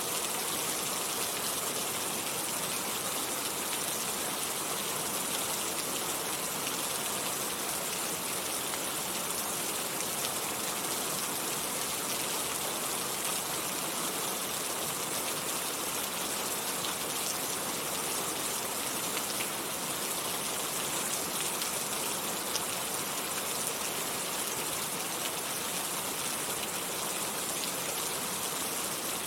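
Steady rain falling, an even hiss of many drops with occasional sharper drop ticks.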